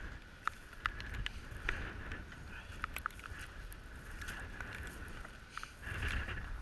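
Goose decoys being handled and carried: scattered sharp clicks and knocks of the decoys, with a louder rustle about six seconds in and low wind rumble on the microphone.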